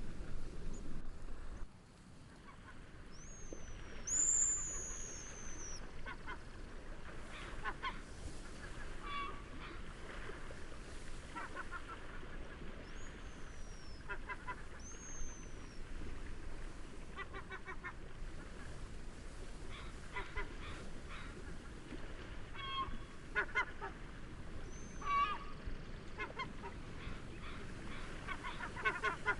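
Waterbirds calling in short rapid series every two to three seconds. High, thin, descending whistles from smaller birds are heard now and then, over a steady hiss of wind and gentle waves.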